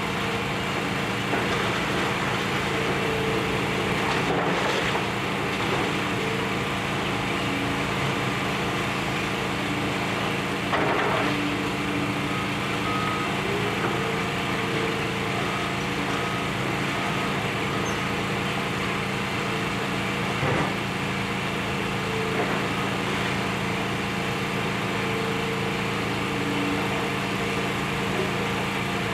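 Demolition excavator with its diesel engine running steadily and a whine that comes and goes. A few brief knocks or crashes stand out, the loudest about 11 and 20 seconds in.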